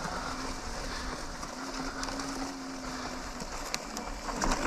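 Electric unicycle riding over rough ground: a steady rush of rolling noise, with a faint steady hum for about a second and a half in the middle and a few sharp knocks near the end.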